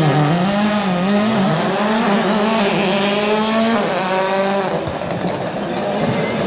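Racing motorcycle engine at high revs: the pitch dips, climbs back up and holds steady, then stops about four seconds in, leaving a rushing hiss.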